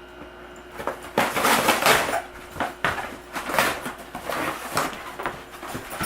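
Alaskan Malamute puppy ripping apart a cardboard box: irregular tearing and crunching of cardboard in quick bursts, starting about a second in.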